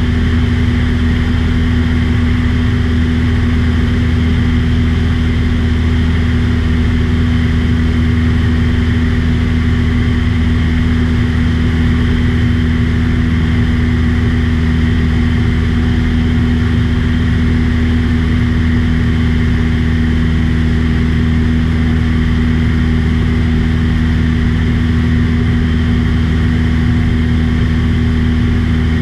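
Small propeller airplane's engine and propeller droning steadily in cruise, heard from inside the cabin, loud and unchanging with a low hum and no let-up.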